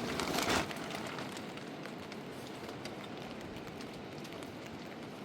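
Steady rain falling and pattering, with many small drop ticks, briefly louder at the start.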